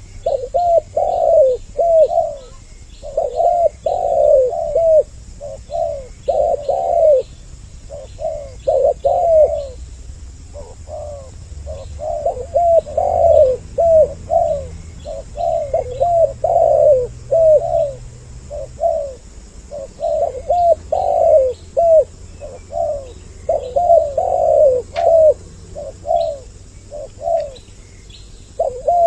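Spotted doves cooing in repeated phrases of arching coo notes, two birds calling with their phrases overlapping.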